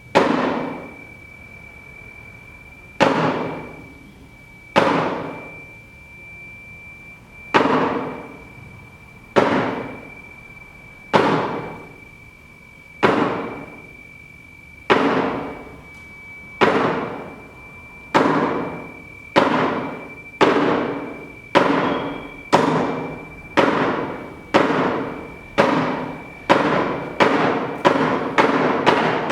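Sharp struck hits, each ringing out, speeding up from about two seconds apart to several a second, over a steady high thin tone.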